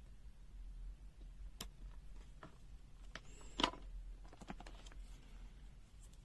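Several light clicks and taps from handling multimeters and test probes on a bench. The loudest comes about three and a half seconds in, and a quick cluster follows about a second later, over a steady low hum.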